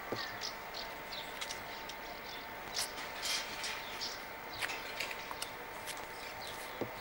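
Small birds chirping in short, irregular high calls, with a few sharp clicks and a faint steady high hum underneath.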